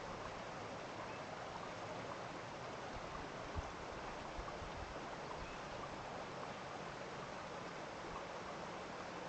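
Steady rush of a flowing stream, with one brief low thump about three and a half seconds in.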